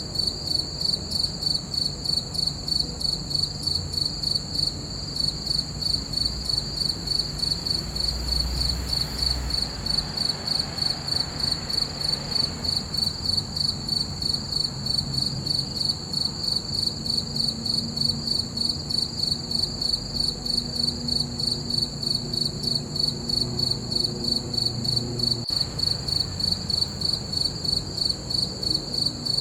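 Crickets chirping in a steady, even rhythm of about three chirps a second, with a faint low rumble underneath.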